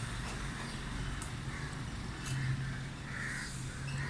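Caged aviary birds giving short harsh calls, with a short call about three seconds in, over a steady low hum.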